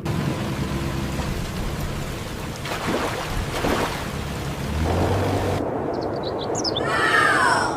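Animated-cartoon sound effects: a steady rushing hiss like rain, with a couple of sweeping whooshes, that cuts off suddenly about five and a half seconds in, followed by a short gliding tonal effect near the end.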